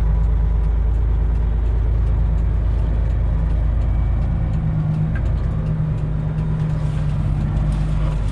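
Freightliner Classic semi truck's diesel engine running at low speed: a steady low drone whose note shifts about halfway through as the throttle changes.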